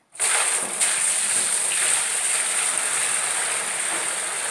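Water pouring steadily into the washing drum, starting abruptly just after the start.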